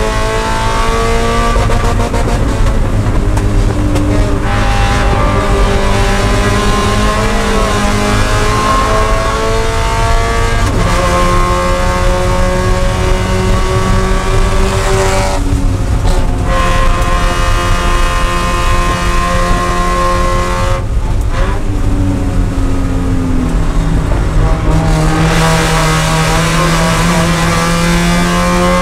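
Spec Miata race car's four-cylinder engine at high revs, heard from inside the cockpit. Its note climbs and falls with throttle and gear changes, briefly easing about halfway through and again about three-quarters of the way in.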